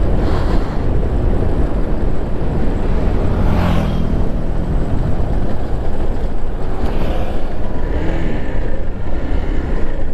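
Motorcycle being ridden at speed: steady rushing wind over the microphone, with the engine running underneath.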